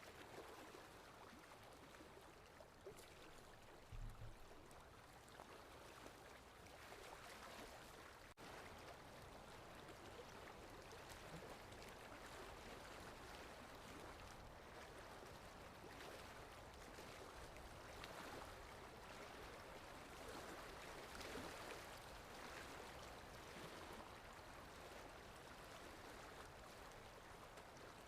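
Sea waves washing on a shore, faint and steady with slow rises and falls, and one brief low thump about four seconds in.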